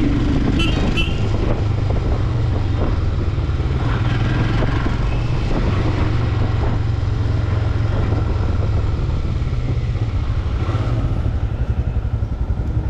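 Royal Enfield Himalayan 411 cc single-cylinder motorcycle engine running steadily while riding, under a steady rush of wind and road noise.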